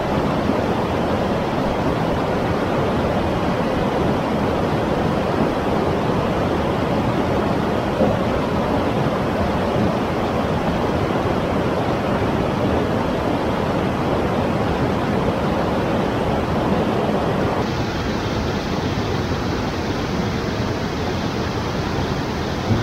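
Steady rushing of fast river water over falls and rapids. About 18 seconds in the sound abruptly turns brighter and thinner.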